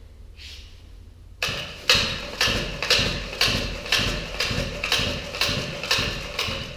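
Small four-stroke engine turned over with its pull-cord starter, about ten sharp strokes at roughly two a second, beginning about a second and a half in. It pulls over easily.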